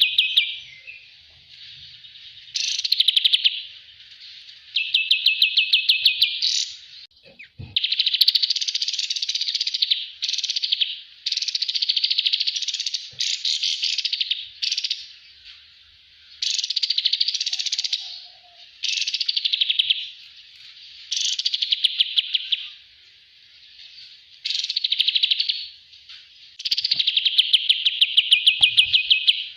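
Kapas tembak songbird singing: a run of fast, high trilled phrases, each one to two seconds long, repeated again and again with short pauses between them.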